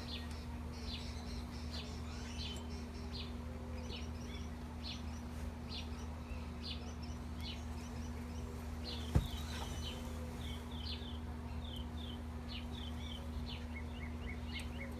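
Small birds chirping repeatedly over a steady low hum of honeybees from the open hive, with a single sharp knock about nine seconds in.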